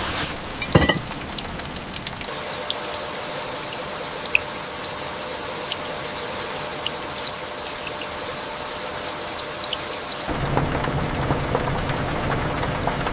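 Steady rain falling, with scattered single drops dripping, and a short loud crack about a second in. About ten seconds in, the rain sound changes abruptly to a denser, deeper fall.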